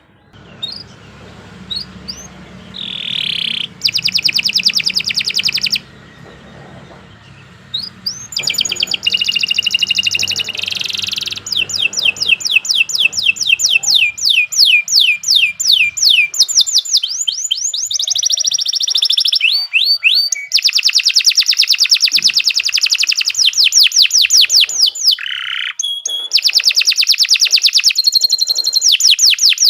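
Canary singing a long, loud song of fast rolling trills, each phrase a rapid run of repeated notes, with brief pauses between phrases.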